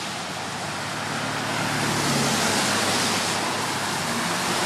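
Cars passing on a busy road: a steady hiss of tyres and engines that swells as a vehicle goes by about two seconds in.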